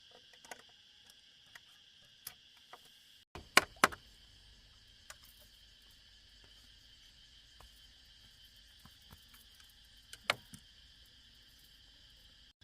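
A steady chorus of insects, crickets by the sound, with a few sharp knocks cutting through: two loud ones close together about three and a half seconds in, another near ten seconds, and fainter taps in between.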